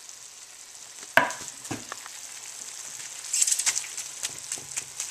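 Chicken strips, garlic and onion sizzling in a hot wok, with a sharp knock about a second in. From about three seconds in, a utensil stirs through the food with a louder sizzle and quick clicking strokes against the wok.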